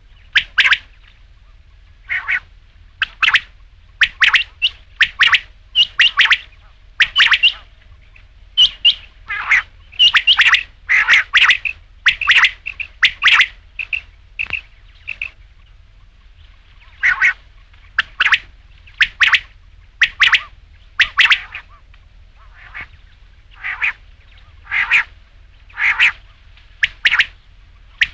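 Quail calling: short, sharp high notes repeated about once a second, often in quick pairs, with brief pauses now and then.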